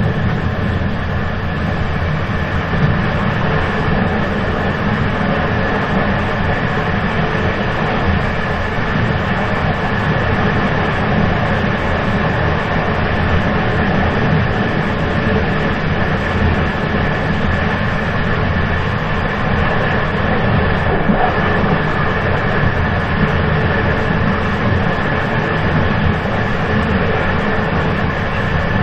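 A moving train running steadily: a constant low rumble with a thin, steady whine above it.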